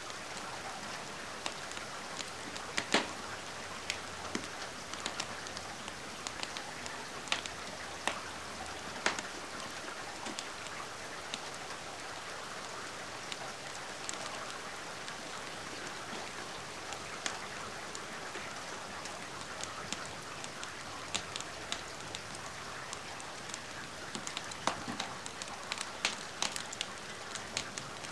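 Steady rain falling, with scattered sharp crackles and pops from a wood fire; the crackles come more often near the end.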